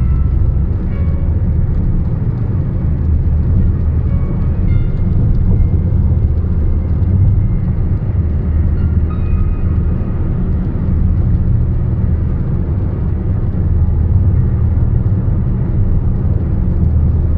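Steady low rumble of a car driving along a highway, road and wind noise with no changes in pace.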